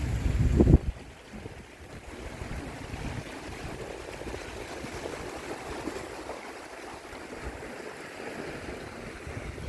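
Sea surf washing against the shore in a steady wash, with wind buffeting the microphone hard for the first second or so.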